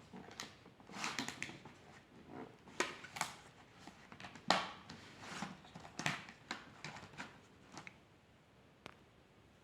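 Drawing strokes scratching on paper, a run of short irregular strokes and taps that stops near the end.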